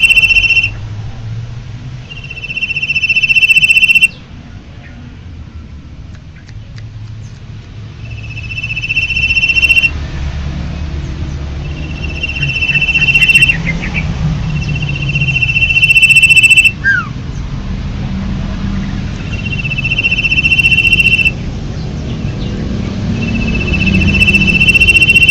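Common iora (cipoh) singing: a long, steady, high whistle of one pitch that swells in loudness and breaks off, repeated about seven times with pauses. Once, a quick falling note follows a whistle.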